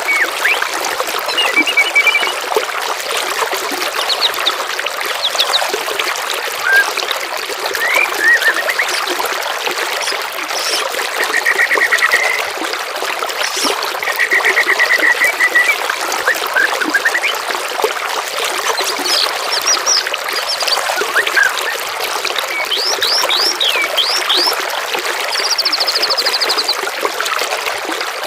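Steady trickle of running water with songbird calls layered over it: short even trills a little before and after the middle, bursts of quick downward-sweeping notes later on, and a buzzy high trill near the end.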